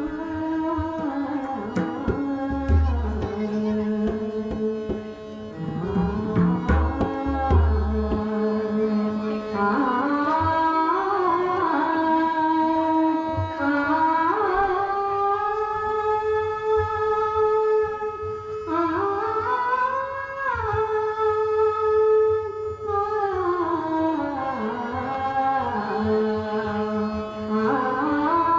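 Marathi devotional bhajan music. Hand-drum strokes and a steady drone come first, then about a third of the way in a melody of long held notes that slide up and down between pitches.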